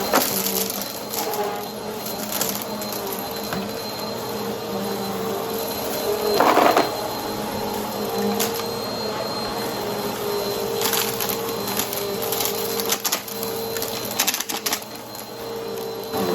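Brushroll vacuum cleaner running steadily with a constant hum, with scattered clicks and short crackling bursts of debris being picked up, the loudest about six and a half seconds in.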